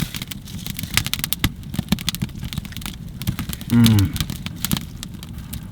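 Wood fire crackling and popping irregularly over a low steady rumble, with a brief falling voice sound about four seconds in.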